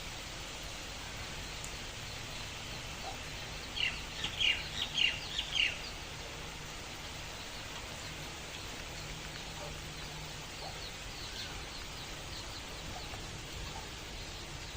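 Steady hiss of rain, with a bird giving a quick run of about seven sharp chirps about four seconds in and a few fainter chirps later.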